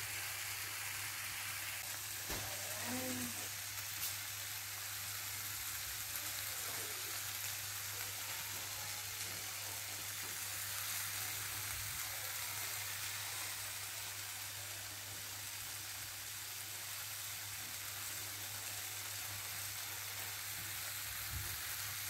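Tawa chicken masala sizzling steadily in a hot pan as cubes of butter melt into it, over a steady low hum.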